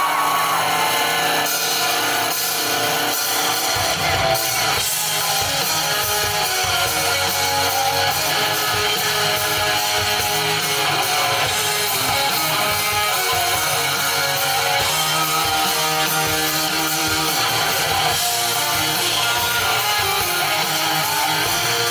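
A live rock band playing an instrumental passage, led by strummed electric guitar over bass and drums.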